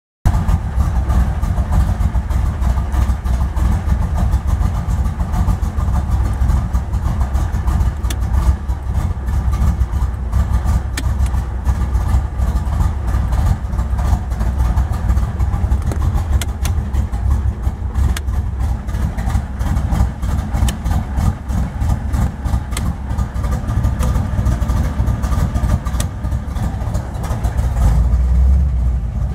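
1969 Corvette's V8 engine idling steadily, heard from inside the car, a low, even rumble.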